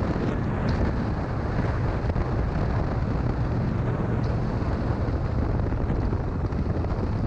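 Wind buffeting the microphone on a moving motorcycle, a steady loud rush, with the motorcycle engine's low drone underneath at a constant pace.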